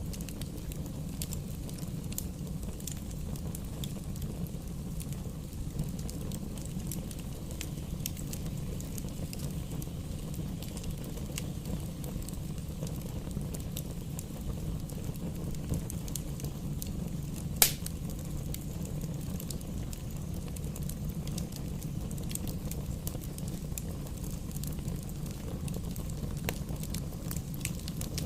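Bonfire burning with a steady low rumble and scattered small crackles. One sharp, loud pop comes about two-thirds of the way through.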